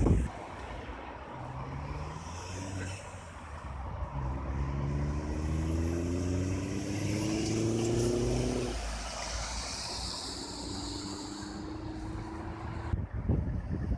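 Passing road traffic with lorry engines; about four seconds in, one engine pulls away, its pitch rising for several seconds before it drops off, and a steadier engine note follows. Wind buffets the microphone near the end.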